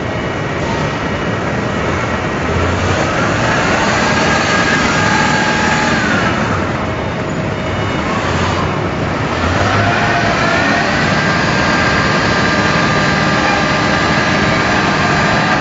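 Heavy industrial machinery running loudly, with a motor whine that rises to a steady pitch, dies away about six seconds in, then rises again around ten seconds and holds.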